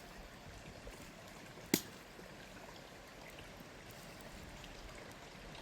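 Steady rushing of flowing water, with one sharp click about two seconds in.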